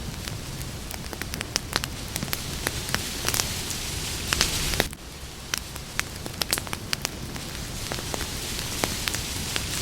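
Campfire burning: wood crackling with many sharp, irregular pops and snaps over a steady hiss of flames. The hiss drops suddenly about halfway through, then builds again.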